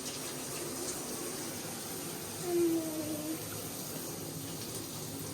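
Water running steadily from a tap into a dog-grooming tub. A little past halfway, one short vocal note falls in pitch over under a second.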